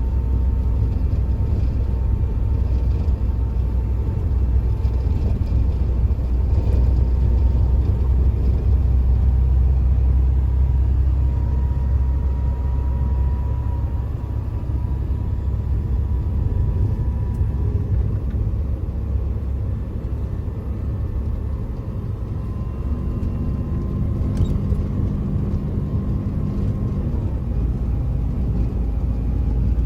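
Truck engine and road noise while driving: a steady low rumble that eases off about halfway through, then a deeper engine note comes in again near the end as the truck pulls.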